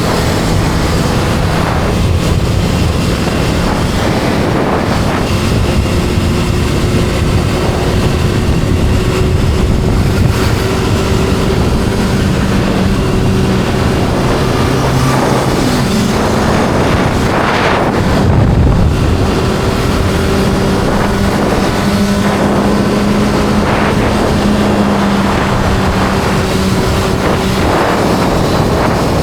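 Kawasaki inline-four sport motorcycle engine running under way, its note stepping up and down in pitch, under heavy wind noise on the microphone. A brief louder rush of wind past the halfway point.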